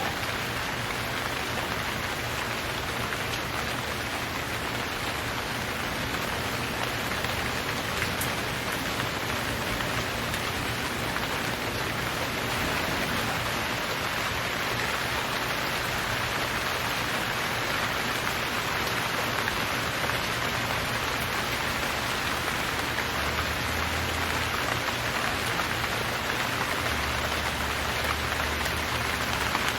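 Steady rain falling, an even hiss of many drops with the odd single drop standing out.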